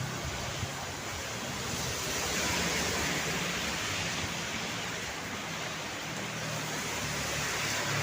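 Steady rain falling, an even hiss that swells a little about two seconds in and again near the end.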